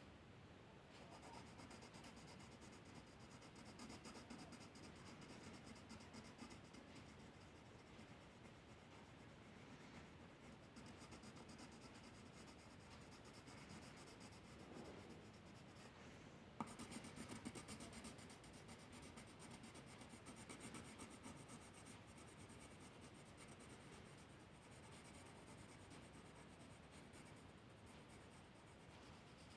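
Faint scratching of a drawing tool moving across paper, with a single sharp click about halfway through.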